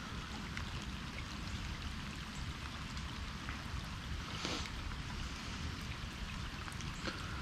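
Steady rain falling on the bayou's water surface, a constant patter of many small drops. About four and a half seconds in, a brief louder hiss rises over it.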